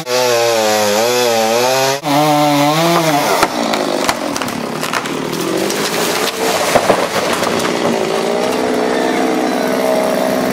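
Two-stroke chainsaw running under load as it cuts through the trunk of a large oak, its pitch wavering as the bar bites. From about three and a half seconds in the sound turns rougher, with scattered cracks and knocks, and the saw's steady note comes back near the end.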